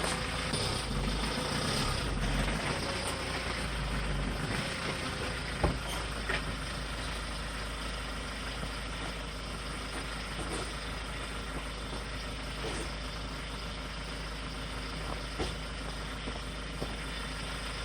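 Delivery truck's engine idling steadily, heavier at first, with one sharp knock about a third of the way through.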